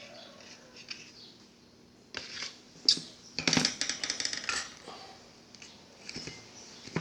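Clicks and metallic clattering, like small hard objects being handled, in a cluster from about two seconds in, loudest around three to four and a half seconds.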